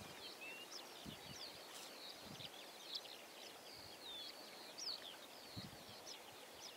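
Small birds chirping and twittering over a faint outdoor hiss, many short quick calls throughout, with a few faint soft knocks.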